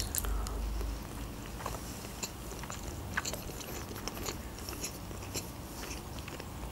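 A person chewing a bite of hard-boiled egg with the mouth closed: quiet, scattered wet mouth clicks.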